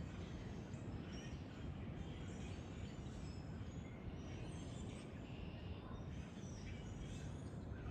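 Outdoor ambience: a steady low rumble with small birds chirping here and there.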